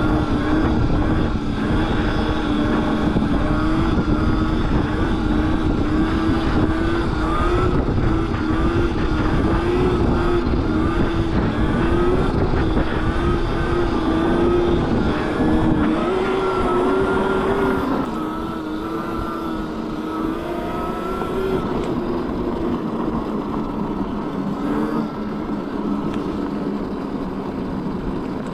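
Electric mini bike's motor whining while riding, its pitch wavering up and down with speed, over a low wind rumble on the microphone. The rumble and overall level drop off about two-thirds of the way in.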